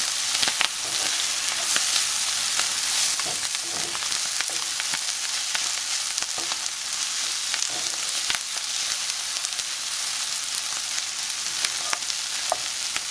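Chopped brisket, tomatoes and peppers sizzling in a hot skillet, with a steady frying hiss. A wooden spoon stirs through the mix, adding scattered scrapes and light knocks against the pan.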